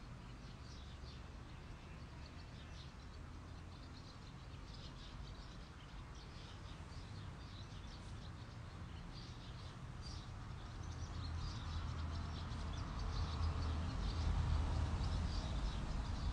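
Small birds chirping and twittering in short high calls throughout, over a low rumble that grows louder in the last few seconds.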